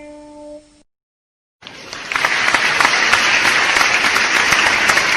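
A pitched musical tone fades out, a brief silence follows, and then a crowd's applause cuts in about a second and a half in, growing louder half a second later and continuing as steady, dense clapping.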